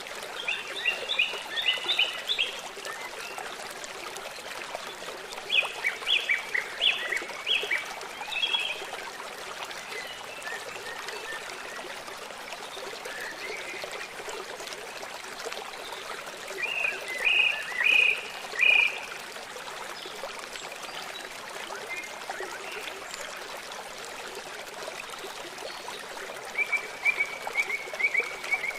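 River water running steadily, with a small songbird singing four bursts of quick repeated high notes.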